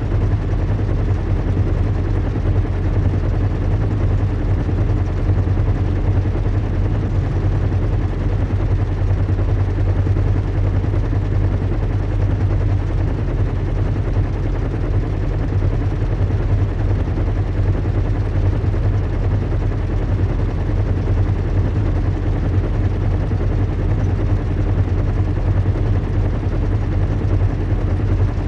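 Recreated airship-in-flight ambience: a steady, unbroken low engine hum with an even hiss over it.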